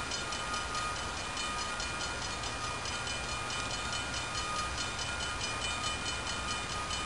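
A train running by: a steady rumble with faint steady high tones over it.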